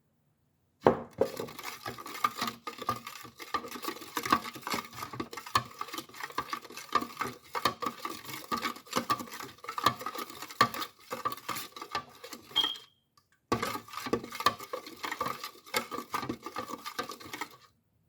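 Kitchen utensils clattering and scraping against a dish, as when oils are stirred and mixed, in a long spell and then a shorter one after a brief pause.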